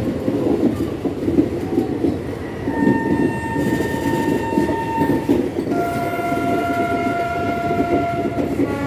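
Indian Railways locomotive horn sounding two long blasts, the second lower in pitch than the first, with a third starting near the end, over the steady rumble of the moving train's wheels and coaches.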